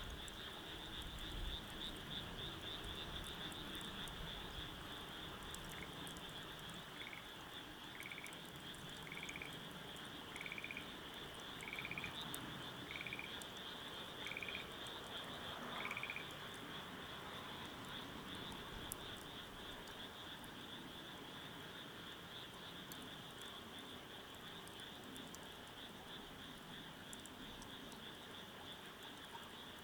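Night ambience: a steady high-pitched insect trill, with a frog calling in short notes about once a second for some ten seconds in the middle.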